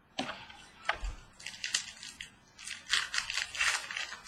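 Trading cards and pack wrapper being handled: short clicks, then bouts of crinkling and rustling.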